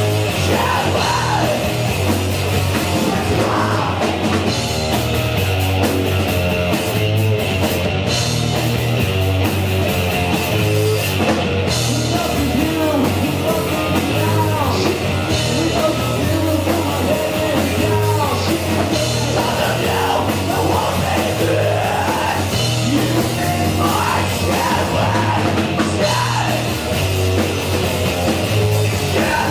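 Punk rock band playing a song live, loud and continuous, with yelled vocals over the band.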